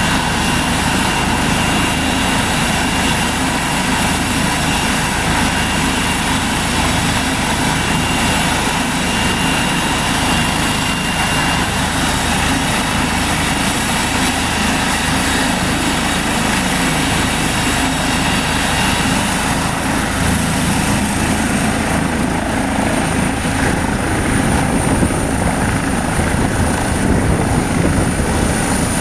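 Air-ambulance helicopter running steadily, its turbine and rotor noise continuous. A high turbine whine comes up about two-thirds of the way through and climbs slightly.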